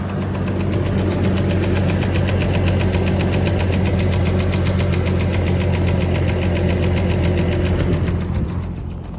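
2006 Chevrolet Trailblazer engine running with a rapid, even knock keeping time with the engine. The sound grows quieter shortly before the end.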